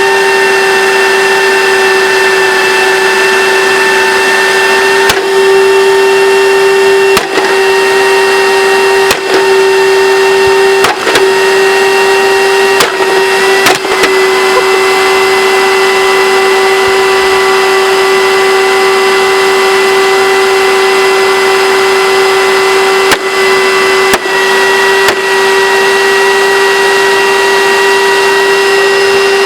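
Hoover Dimension Supreme vacuum cleaner's motor running loud and steady with a constant whine. Several brief knocks come between about 5 and 14 seconds in, and a few more around 23 to 25 seconds in.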